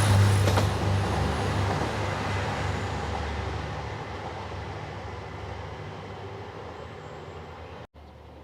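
A train that has just passed, its running rumble and low engine hum fading steadily as it draws away. The sound drops out completely for an instant near the end.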